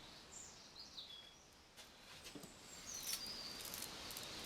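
Faint bird chirps, a few short gliding calls twice, over quiet background hiss.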